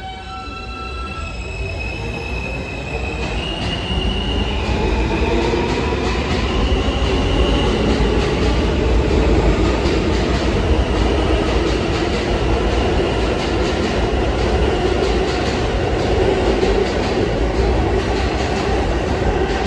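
R160 subway train pulling out and accelerating: its traction motors whine in steady tones that step up in pitch over the first few seconds as the sound grows louder. It then runs at speed with a steady loud rumble and a high wheel squeal.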